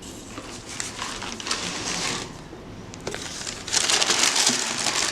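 Shoe-box packaging rustling and crinkling as a pair of sneakers is unwrapped. It comes in two stretches, the second louder, near the end.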